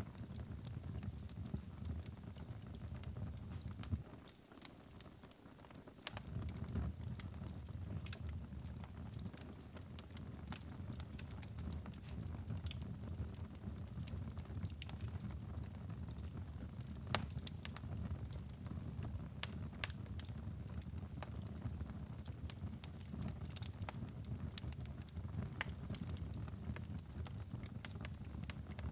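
Wood fire crackling in a fireplace: irregular sharp pops and snaps scattered over a low, steady rumble of burning. The low rumble drops away briefly about four seconds in, leaving only the crackles.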